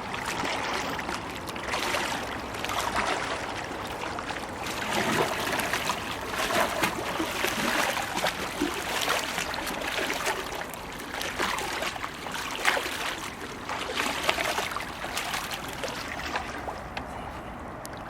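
Kayak paddle blade sculling through the water in a figure-of-8 beside the boat, with water swishing, splashing and dribbling off the blade in repeated swells every second or two. It tails off near the end.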